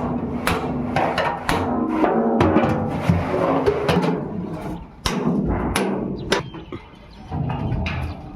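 Hammer blows on sheet steel, irregular strikes about one or two a second, with the metal ringing between them.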